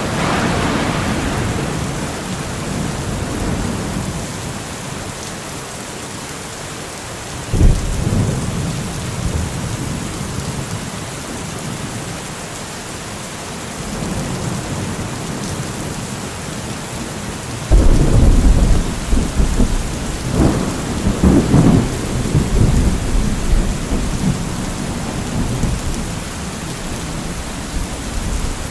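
Steady rain falling through a thunderstorm. A peal of thunder fades over the first few seconds, a sudden sharp clap comes about seven and a half seconds in, and a long loud rolling peal with two sharper cracks starts about eighteen seconds in.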